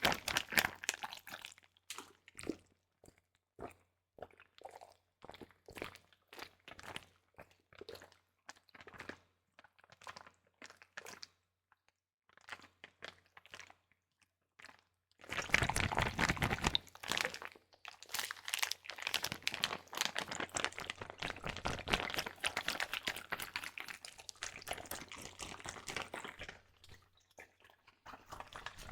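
Water sealed in a double-layered Ziploc plastic bag being squeezed and handled close to the microphone: sparse crinkles and squishes at first, then from about halfway through a dense, continuous crackling of the plastic.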